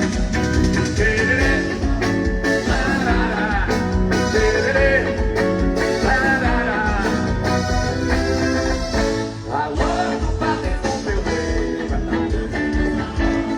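Band music with a singer over a steady bass beat, played loud through a trio elétrico's sound system.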